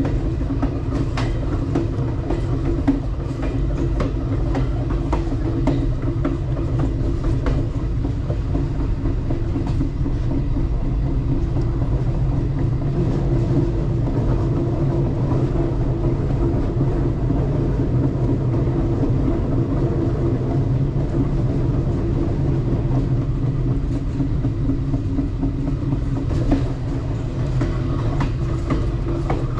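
Alaska Railroad passenger train running along the track: a steady low rumble and hum of the railcar, with scattered clicks from the wheels on the rails.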